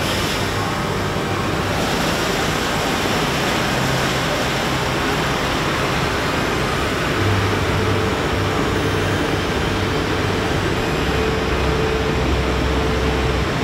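Car wash tunnel equipment running: a loud, steady rush of noise over a low hum.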